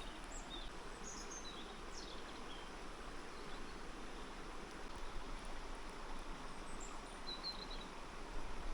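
A river rushing steadily, with a few short, high bird chirps over it in the first couple of seconds and again near the end.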